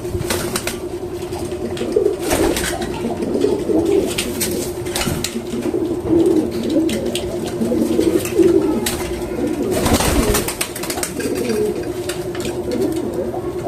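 Pigeon cooing over and over in low warbling phrases, with scattered sharp clicks and taps in between.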